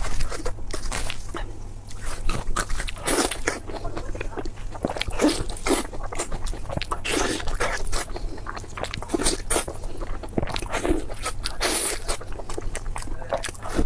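A person chewing and biting food into a close microphone: wet mouth smacks and bites that repeat irregularly, about one or two a second.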